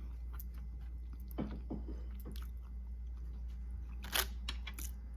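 A person chewing and biting seafood-boil food up close to the microphone: scattered wet crunches and small clicks, the loudest crunch about four seconds in, over a steady low hum.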